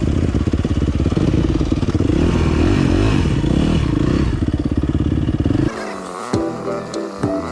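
Dirt bike engine running close by, a loud, fast, steady stream of exhaust pulses. About five and a half seconds in it cuts off abruptly and background music takes over.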